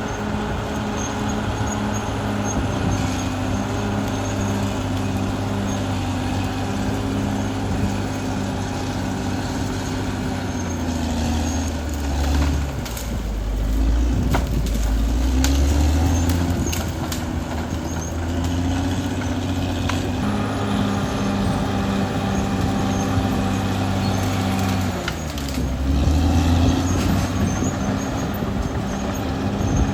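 Caterpillar D6R XL bulldozer's diesel engine running steadily; its pitch dips and recovers twice, about halfway through and again near the end. Sharp metallic clanks sound through the middle.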